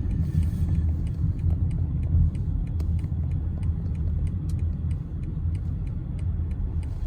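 Car driving on snowy roads, heard from inside the cabin: a steady low rumble of engine and tyres, with faint scattered clicks over it.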